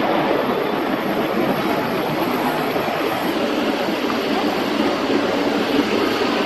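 Steady rushing jet-engine noise from a jet airliner.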